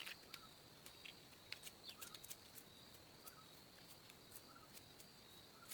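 Faint rural outdoor ambience: a steady high-pitched drone with small chirps about once a second and scattered light clicks.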